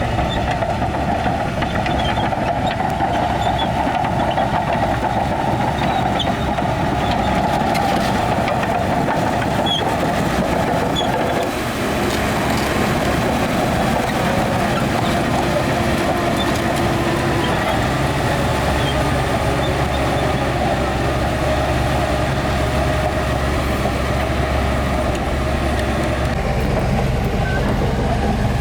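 Heavy diesel earthmoving machinery running steadily, a continuous engine drone with a deep low hum.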